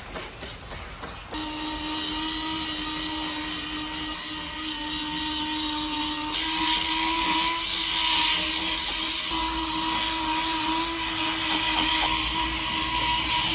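A small electric cleaning appliance's motor starts about a second in and runs with a steady hum. About halfway through, a louder hissing, scrubbing layer joins it.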